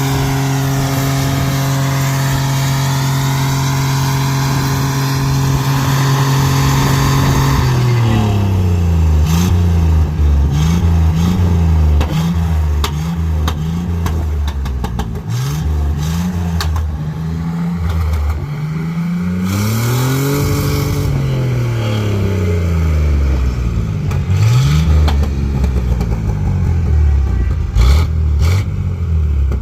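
Car engine held steady at high revs during a burnout, with a hissing, squealing tire noise over it. About eight seconds in, the engine drops and is revved up and down again and again, with sharp cracks scattered through.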